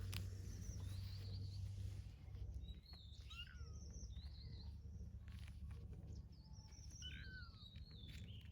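Small birds chirping in quick, twisting phrases, about three bursts a few seconds apart, over a steady low rumble.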